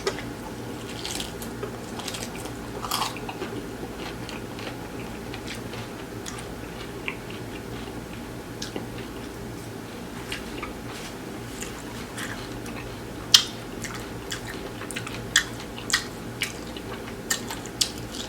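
A person chewing and biting into tacos close to the microphone, with scattered wet mouth clicks that come sharper and more often in the second half, over a faint steady hum.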